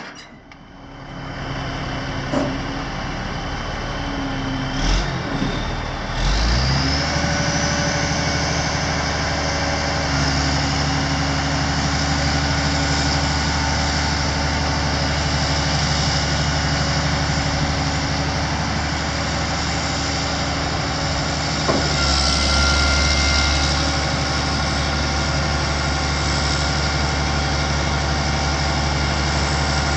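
Kenworth T300 truck's diesel engine settling into a steady idle about six seconds in, with a short rise in engine speed a little past the twenty-second mark.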